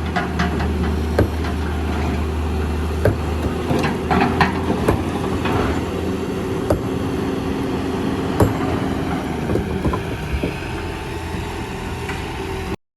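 Diesel heavy machinery at work, an excavator loading sand and rock into a dump truck: a steady engine hum with scattered sharp knocks and clanks of rock on steel. The deepest part of the engine hum drops away about halfway through, and all sound cuts off suddenly just before the end.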